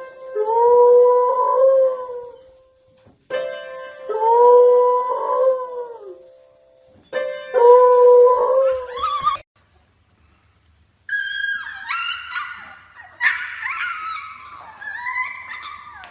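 A dog howling: three long, drawn-out howls of about two seconds each, with short pauses between. After a brief silence come higher, wavering howls and whines.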